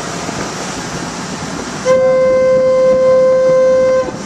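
A single steady horn blast on one pitch, about two seconds long, starting about two seconds in and cutting off abruptly, over a steady background hiss.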